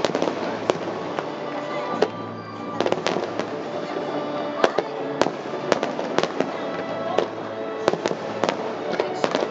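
Fireworks going off, with irregular sharp bangs and cracks one after another over a steady rumble. Music plays underneath.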